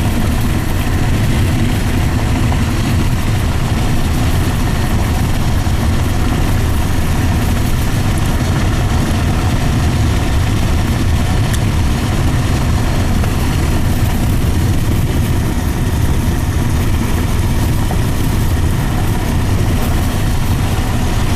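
Steady low rumble inside a moving car's cabin: engine and tyre noise with road and wind noise, unchanging throughout.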